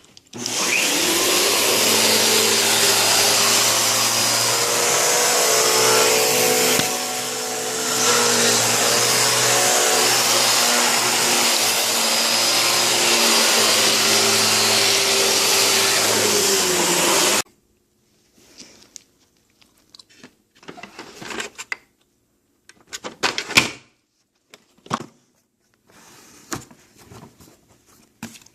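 Kenmore vacuum cleaner switched on, its motor running with a steady loud whine and a brief drop in level about seven seconds in, then switched off about seventeen seconds in. Scattered clicks and knocks follow.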